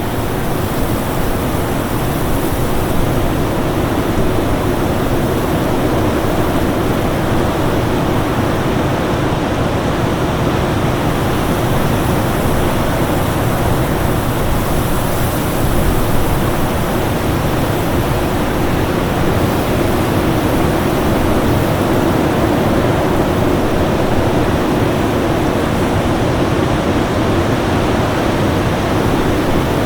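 Winter storm wind: a steady, even rushing noise, heaviest in the low and middle range, with slow gentle swells in the hiss at the top.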